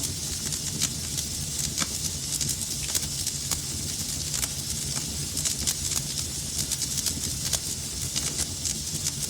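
Fire in a fireplace crackling: irregular sharp pops and snaps, several a second, over a steady hiss and low rumble of burning.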